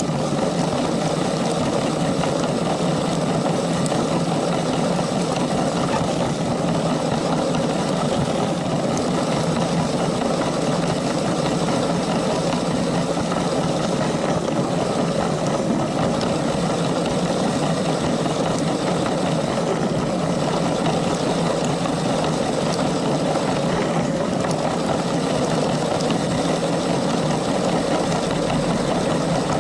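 LEGO train's small electric motor and plastic gears running steadily as the train rolls along the track.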